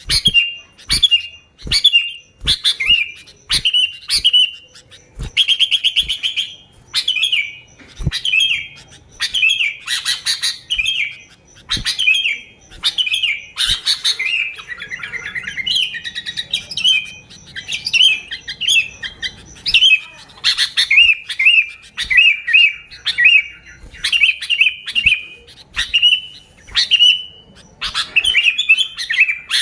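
Sooty-headed bulbul song: short, bright chirping phrases repeated once or twice a second in a lively, continuous chatter.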